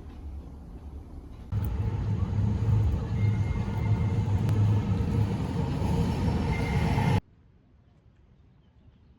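Steady low rumble of vehicle noise that starts abruptly about a second and a half in and cuts off sharply about seven seconds in, leaving near silence.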